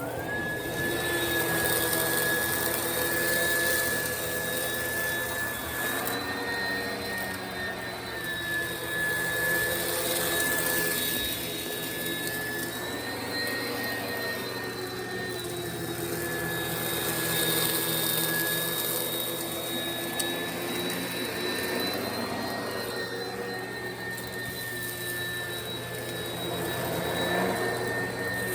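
Oreck XL commercial upright vacuum cleaner running over carpet, sucking up cat litter buried in the fibres. It has a steady high motor whine, and the sound swells and eases every few seconds with the back-and-forth strokes.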